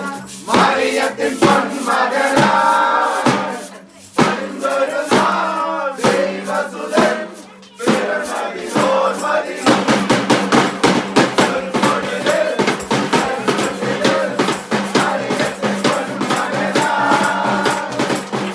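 A Malayalam Christmas carol sung by a group with drums. About ten seconds in it breaks into a fast, steady drum beat under the singing.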